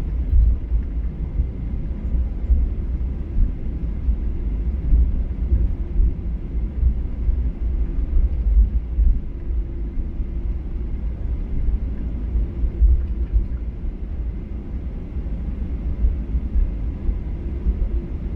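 Steady low rumble in the cabin of a Boeing 737-800 taxiing, its CFM56 engines at low power, with a faint steady hum over the rumble.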